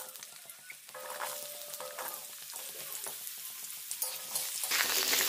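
Raw potato cubes sizzling as they fry in hot mustard oil in a kadhai, with a metal ladle stirring them. The sizzling grows much louder near the end.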